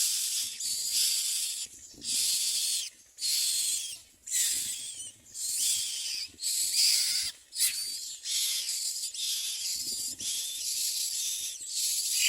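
Common myna nestlings begging for food with harsh, raspy hissing calls, repeated about once a second.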